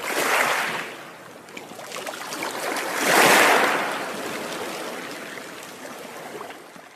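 Sea water washing and splashing, with two surges about three seconds apart, the second one the louder, each fading away slowly.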